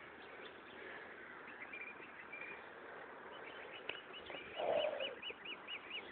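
Faint bird chirping: in the second half, a quick run of high, rising-and-falling chirps about five a second. About four and a half seconds in there is a short, louder animal call, lower in pitch.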